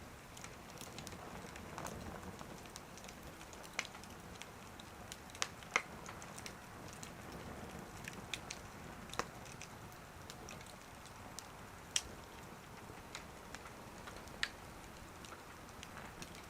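Small wood fire burning in a wood stove, crackling with scattered sharp pops, a handful of them louder than the rest.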